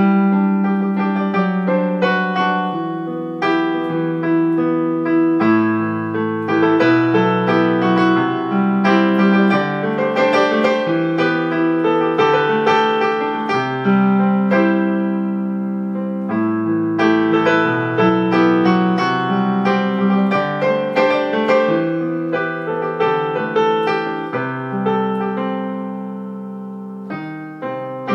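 Solo piano playing a pop ballad melody over sustained bass notes and chords, easing off softly before picking up again near the end.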